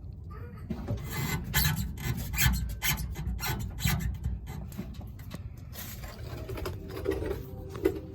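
Suspension of a 2019 Toyota Tundra TRD Pro creaking and rasping in repeated strokes, about three a second, then lower pitched creaks near the end. The owner puts the noise down to failing Fox shocks.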